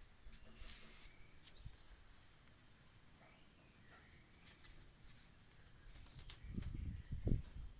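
Faint rural outdoor ambience: a steady high insect drone, with a short, falling bird chirp about five seconds in and a low rumble near the end.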